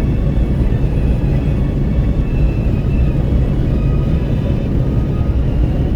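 Wind rushing in at an open car window over the steady low rumble of road and tyre noise, heard from inside the cabin of a Renault Kwid 1.0 at highway speed.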